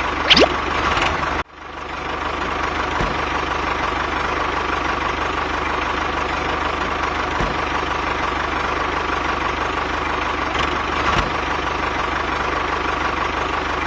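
Small DC motor running steadily with a constant hum. A short rising whoosh comes just after the start, and about a second and a half in the sound cuts out briefly, then builds back up.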